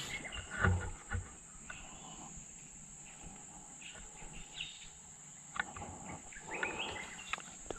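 Insects droning in a steady high-pitched hum, with a few light clicks and some faint bird chirps near the end.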